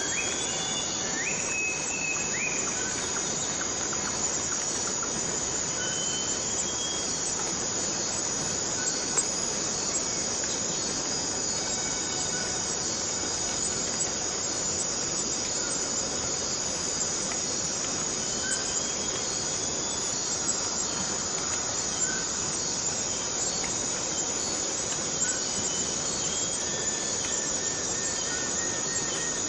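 Forest cicadas droning in a steady, high-pitched buzz, with scattered faint short chirps above a hiss of background noise.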